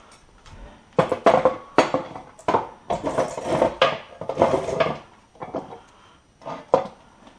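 Hand tools and metal parts clinking and clanking irregularly, a dense run of sharp clanks starting about a second in and a couple more near the end, while the top mount bolts of a front coilover strut are being fastened.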